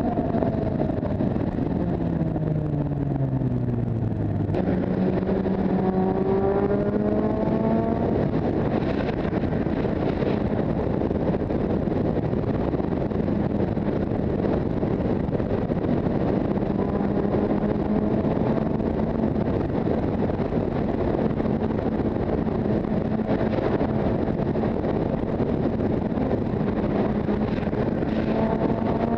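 Motorcycle engine under way: its pitch falls for about four seconds, jumps back up and climbs, then holds steady at a cruise for most of the time before rising again near the end. Heavy wind and road noise runs underneath.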